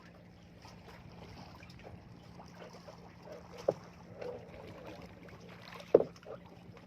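Sounds aboard a small fishing boat: a steady low hum over a hiss of rain and wind, with two sharp knocks, the second, near the end, the louder.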